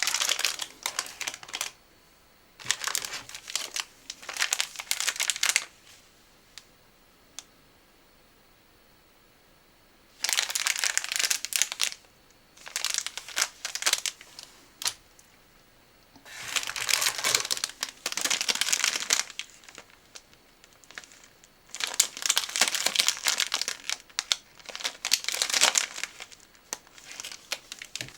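Snack packaging crinkling as it is handled and opened, in several bursts of one to three seconds with quiet pauses between.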